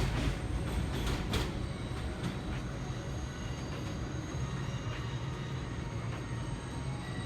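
Subway train running along the line, its wheels clacking over rail joints in the first second and a half, then easing to a steady rumble with a faint high wheel squeal.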